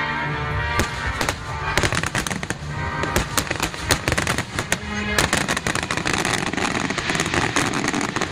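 A wide starmine fireworks barrage: shells bursting in rapid succession, sparse at first and then a dense, near-continuous crackle of reports from about two seconds in, over music playing for the display.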